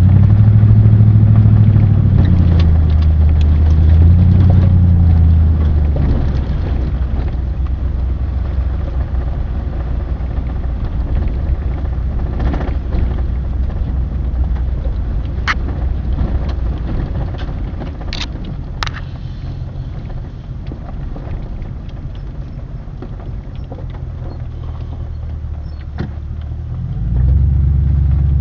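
An engine running, its pitch rising and falling in the first few seconds, easing off through the middle and picking up again near the end. A few sharp clicks come midway.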